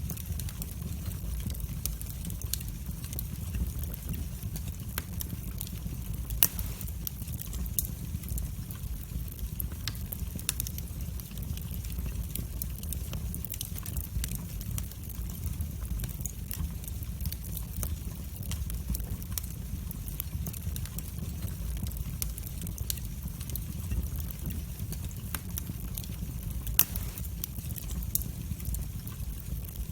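Wood fire burning in a fireplace: a steady low rumble of flames with scattered crackles throughout, and two louder pops, one about six seconds in and one near the end.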